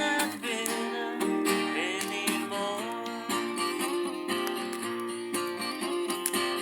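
Acoustic guitar playing chords in an instrumental passage between sung lines.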